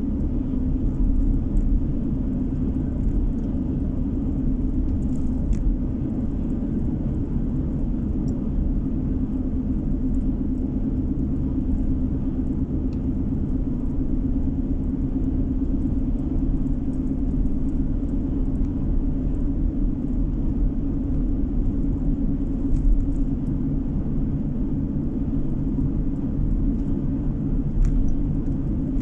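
Car driving at a steady speed, heard from inside the cabin: an even low rumble of engine and road noise.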